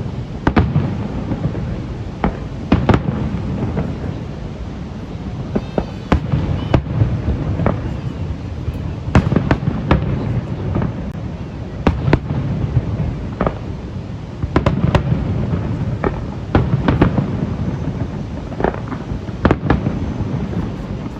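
Aerial fireworks display: shells bursting with sharp bangs, roughly one or two a second, over a continuous low rumble of booms.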